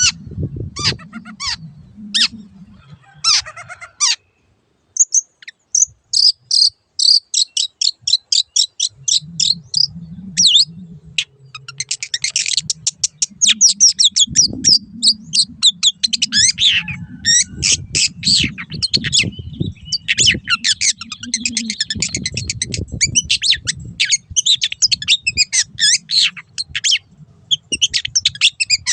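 Long-tailed shrike singing. A few separate calls open the song, then from about five seconds in come long, fast strings of short, high, rapidly repeated notes, with a low rumble underneath for much of the song.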